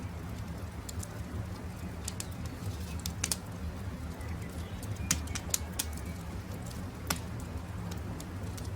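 Campfire crackling, with sharp pops over a low steady rumble; the loudest pops come in a quick cluster about five seconds in and singly about three and seven seconds in. Faint bird calls sound behind the fire.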